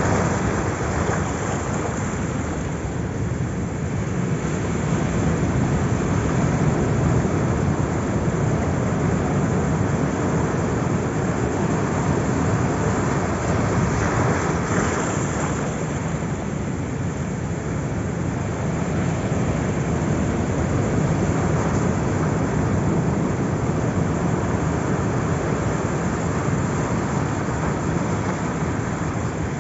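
Sea surf: a continuous rushing wash of waves that slowly swells and eases, with one brighter, hissier wash about halfway through.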